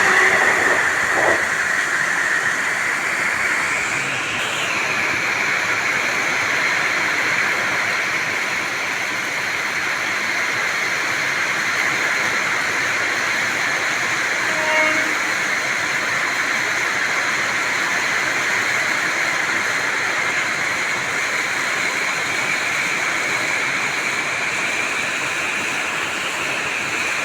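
Malda Intercity Express running through the station at speed: a steady rush of coaches and wheels on the rails, mixed with heavy rain. The last of a horn note fades in the first second.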